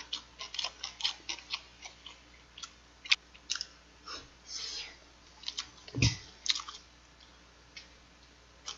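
Close-miked chewing of smoked pork belly: wet smacking and small clicks from the mouth in irregular runs. There is a louder low thump about six seconds in.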